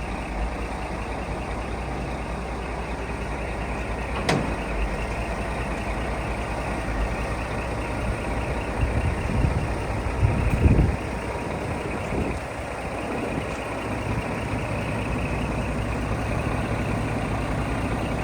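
Scania R480 dump truck's diesel engine idling steadily, with a sharp click about four seconds in and a few louder low thumps a little past halfway.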